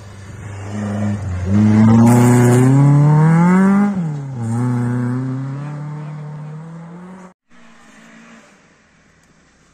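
Opel rally car's engine at full throttle as it passes: the pitch climbs, drops at a gear change about four seconds in, then climbs again as the car pulls away. The sound cuts off suddenly near the end, leaving a faint, distant engine.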